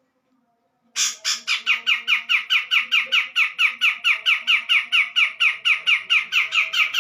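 Cucak jenggot (grey-cheeked bulbul) calling: a rapid run of evenly spaced sharp notes, about six a second, that starts about a second in.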